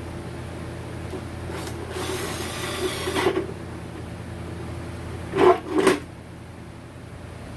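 Tools being handled during workshop work: a scraping rub lasting about a second and a half, then two sharp knocks in quick succession, over a steady hum.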